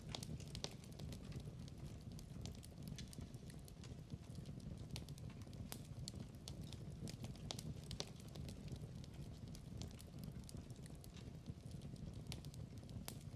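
Wood fire in a fireplace crackling quietly: frequent irregular sharp pops and snaps over a low, steady rumble.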